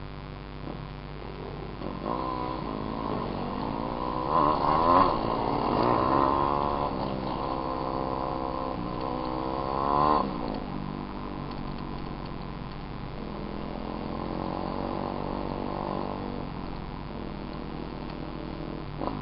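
Small dirt bike engine running, revved a few times: pitch climbs and falls about four to seven seconds in, climbs again to a peak near ten seconds, then drops back to a steady run.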